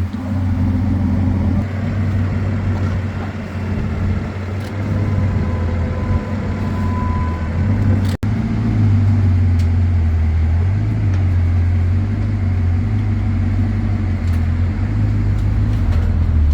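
A motor vehicle's engine running at low revs, a steady low rumble, cut off briefly about eight seconds in.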